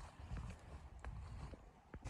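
A few faint, irregular knocks and soft thuds, about four in two seconds.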